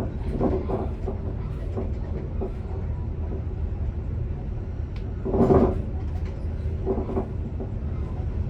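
Electric commuter train running, heard from the driver's cab: a steady low rumble with a few short knocks, the loudest a thump a little past halfway.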